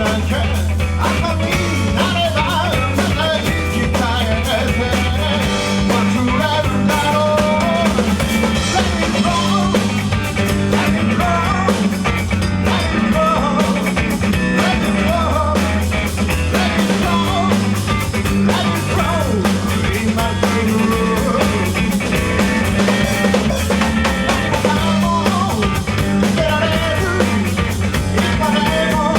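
Rock band playing live: drum kit, guitar and bass with a singing voice.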